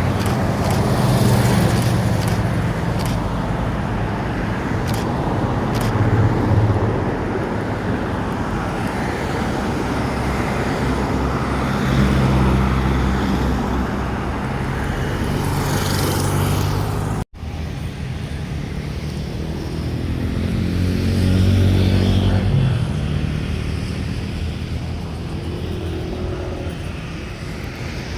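Motor vehicle engines running with steady road-traffic noise. The hum swells and fades as vehicles pass, and the sound cuts off abruptly about two-thirds of the way through before resuming.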